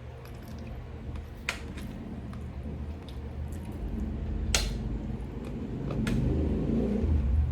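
Close-up eating sounds: wet chewing of chicken stew, with three sharp utensil clinks on a plate or bowl about one and a half, four and a half and six seconds in.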